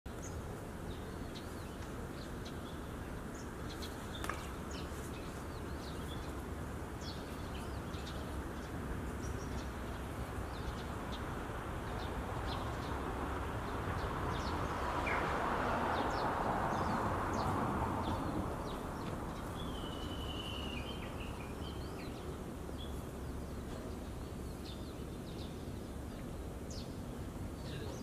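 Small birds chirping in short, high calls throughout, with one longer wavering phrase a little over two-thirds of the way in that fits a Japanese bush warbler's song. A broad rushing noise swells and fades in the middle, over a steady low background hum.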